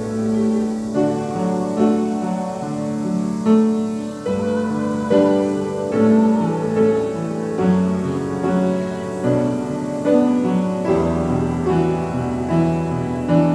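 Piano played slowly in held chords, a new chord or melody note sounding about once a second.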